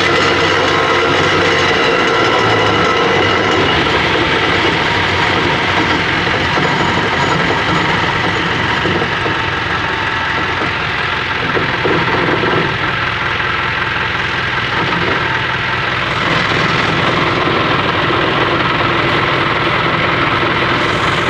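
Isuzu Elf truck with its 4HF1 diesel running and the jacked-up rear wheels, propeller shaft and differential spinning, giving a steady mechanical whine from the drivetrain. The noise comes from inside the differential carrier, which the mechanic suspects is a worn pilot bearing or ring gear bearing.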